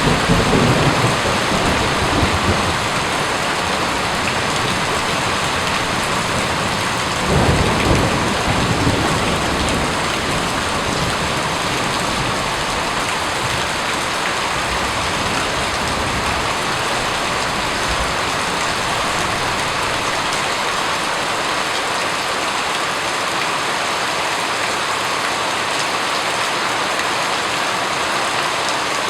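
Steady heavy rain falling, with low rolls of thunder at the start and again about seven seconds in.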